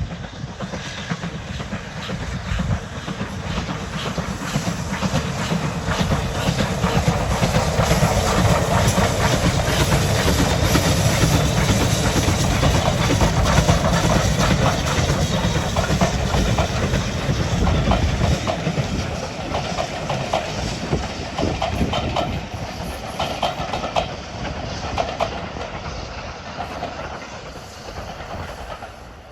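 BR Standard Class 9F 2-10-0 steam locomotive 92134 and its train running past, with steam hiss and the rhythmic clickety-clack of wheels over the rail joints. It grows louder to a peak around the middle, with a deep rumble that drops away about two-thirds through, then fades.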